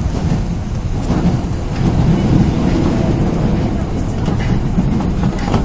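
Osaka Municipal Subway 22 series train running between stations, heard from inside the car: a steady low rumble of wheels on rail, with a few faint clicks from the track.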